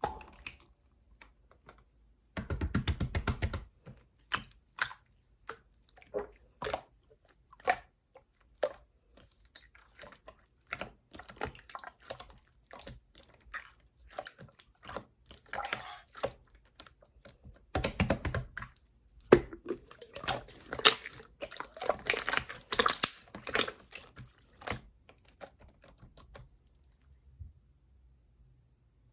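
Clear slime being squeezed and pressed by hand, giving a stream of small sticky clicks and pops. The popping comes in denser, louder clusters about two and a half seconds in, around eighteen seconds, and from about twenty to twenty-four seconds.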